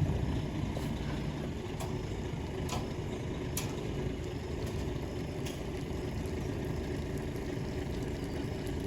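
A motor vehicle's engine running steadily at low revs, with a few light clicks over it.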